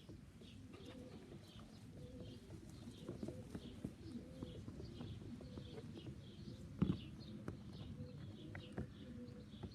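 Sheffield Cross Pilot racing pigeons cooing softly in a cage, with small scuffs and one sharp knock about seven seconds in.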